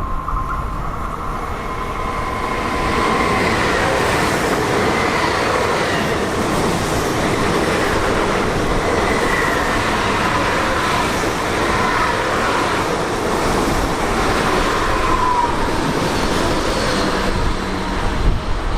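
A train passing on the tracks: its running noise builds about two seconds in and holds steadily, with faint high tones drifting over it, before dropping away near the end.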